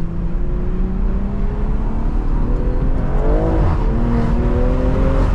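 BMW M340i's turbocharged B58 inline-six with a stage 2 tune and catless downpipe, pulling under acceleration. Its pitch rises steadily, drops about three seconds in at a gear change, then rises again.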